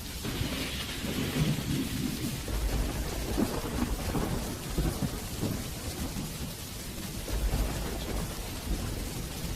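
Steady rain hissing, with thunder rumbling low and rolling through most of the stretch, swelling and easing several times.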